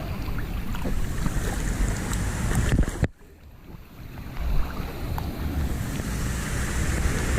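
Wind buffeting the microphone over rushing water, a steady noisy rumble. It drops away sharply about three seconds in and comes back a second or so later.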